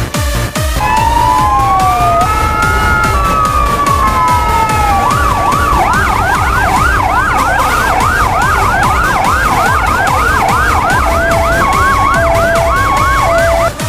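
Fire engine's electronic siren sounding a slow wail, rising and falling, then switching about five seconds in to a fast yelp of about three sweeps a second, over background music with a steady beat.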